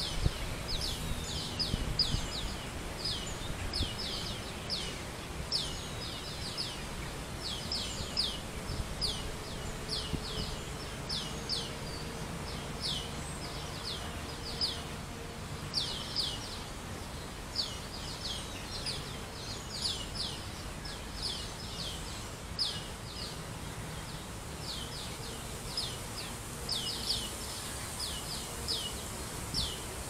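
A bird calling over and over with short, high, down-slurred notes in quick runs of two to four, over a steady low background rumble.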